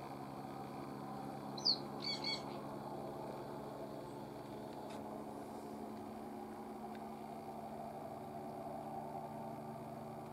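A few short bird chirps about two seconds in, one sliding down in pitch, over a steady low hum.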